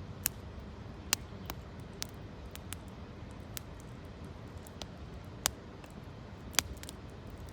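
Campfire of gathered branches and leaves crackling: sharp, irregular pops, about a dozen, the loudest a little after one second, at about five and a half seconds and at about six and a half seconds, over a steady low rushing background.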